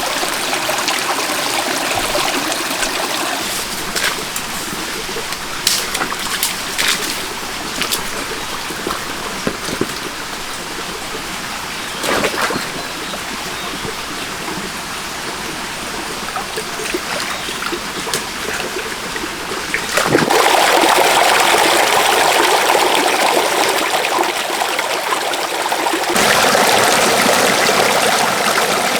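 Flowing stream water, a steady rush with a few sharp clicks in the first third. It grows louder and fuller about two-thirds of the way through, and again near the end.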